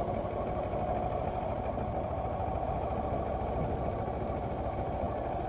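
Kawasaki Versys motorcycle engine running steadily at low speed, heard from the rider's position along with road noise.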